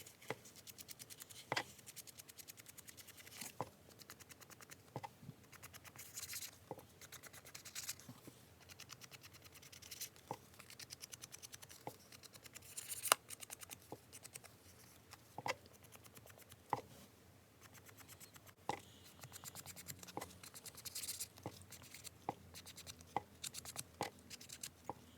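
A small ink blending brush scrubbing Distress ink onto the edges of paper: faint, rapid scratchy rubbing in spells, with light taps every second or two.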